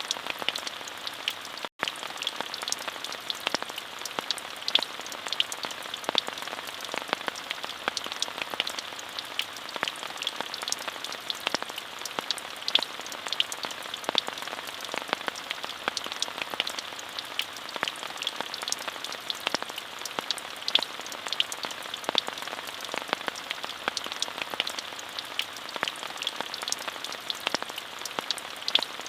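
Steady rain, an even hiss full of many sharp individual drop hits. The sound drops out completely for an instant just under two seconds in.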